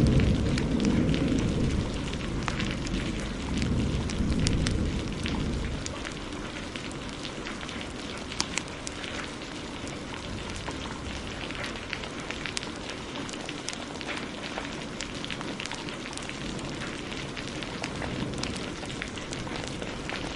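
A roll of thunder rumbling and dying away over the first six seconds, over steady heavy rain and the crackling and popping of a wood fire.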